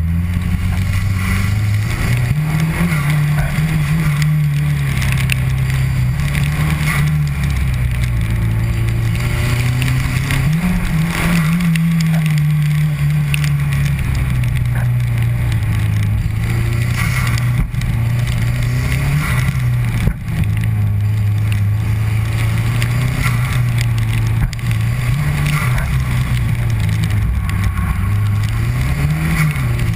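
Mazdaspeed 3's turbocharged 2.3-litre four-cylinder engine working hard through an autocross course. Its pitch climbs and falls again and again as the car accelerates and slows between corners, with a few brief dips in loudness.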